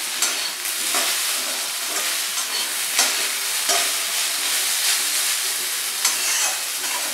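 Eggplant pieces with neem flowers frying in a steel kadai, sizzling steadily, while a metal spatula stirs them and scrapes against the pan in irregular strokes.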